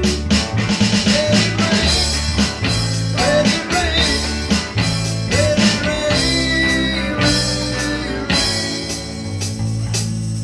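Live rock music: electric guitar over bass and a drum kit, with a steady beat.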